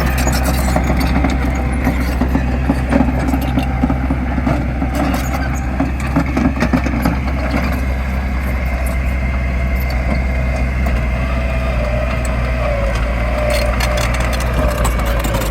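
Heavy diesel construction machine engine running steadily, with scattered metallic clanks and knocks.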